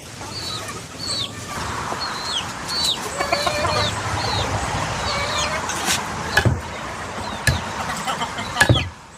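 Chickens calling: a run of short, high chirps, each falling in pitch, with a few lower clucks in the middle, over a steady hiss. Several sharp knocks come in the second half, the loudest near the end.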